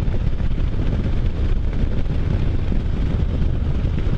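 Wind rushing and buffeting on the microphone of a moving Can-Am Spyder F3, with the machine's engine and road noise running steadily underneath.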